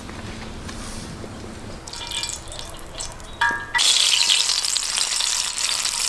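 A short metallic ring, then food going into hot fat and sizzling loudly, starting suddenly about two-thirds of the way in and continuing as a steady hiss.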